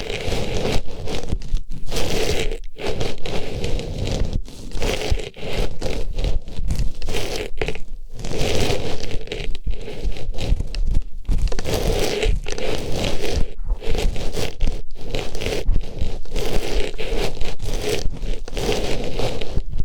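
Artificial flower pushed into and rubbed around an ASMR microphone's ear, a loud, continuous rustling and scraping with many brief breaks.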